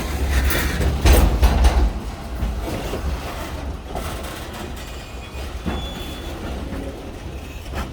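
Freight train with EMD SD40-2 diesel locomotives easing up to couple onto cars: a steady low rumble, with a loud burst of clanking about a second in as the couplers meet.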